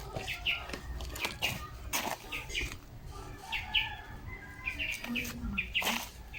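Small birds chirping in short, quickly repeated notes, in clusters every second or so, with scattered clicks and rustles.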